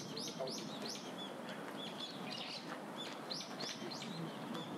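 Small birds chirping: a quick run of short, high, downward-sliding notes in the first second, then scattered calls, over a steady low background noise.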